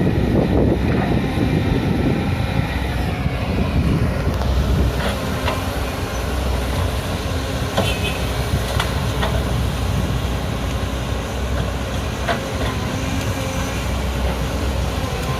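A hydraulic excavator's diesel engine running steadily, somewhat louder for the first few seconds, with a few short clicks.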